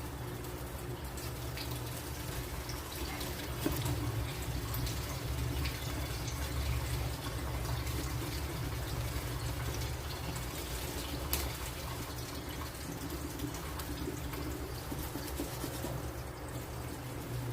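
Water running and splashing over a steady low hum, with a few small knocks.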